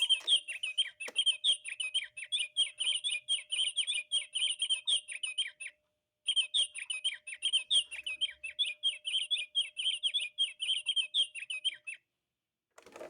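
Recorded house finch song played back: a long, fast, varied warble of high notes, about six seconds, a brief pause, then a second run of about the same length.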